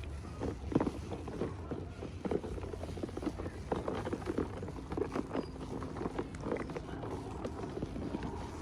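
Small plastic toy pieces and packaging being handled, giving irregular light clicks and taps, the sharpest about a second in, over a steady low hum.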